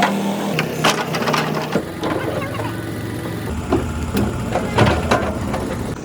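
Kobelco excavator engine running, its pitch stepping down in the first couple of seconds, with repeated sharp knocks and clanks typical of fitting a track chain.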